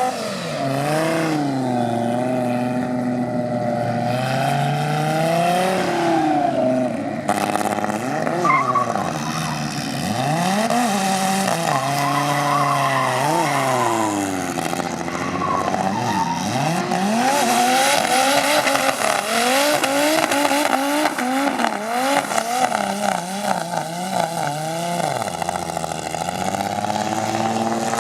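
Audi 2.2-litre 20-valve turbocharged inline five-cylinder engine revving hard, its pitch rising and falling again and again as the car drifts, with tyres squealing.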